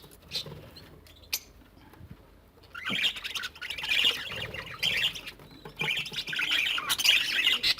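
Small pet parrots, cockatiels among them, squawking and chirping. The first few seconds are quieter with a few light clicks, and from about three seconds in harsh calls come in quick repeated bursts.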